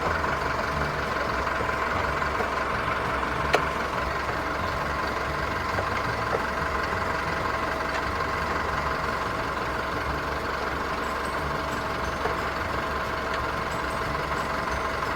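A 24-volt truck's engine idling steadily after being jump-started from a flat battery. A single sharp click sounds about three and a half seconds in.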